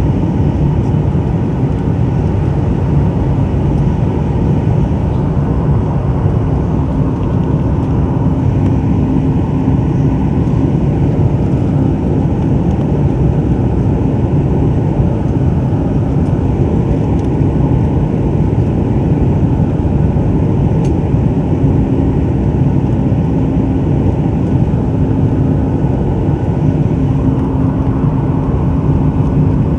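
Steady cabin noise inside a Boeing 737 MAX 9 in flight: the rush of airflow over the fuselage and the low drone of its CFM LEAP-1B engines, unchanging throughout.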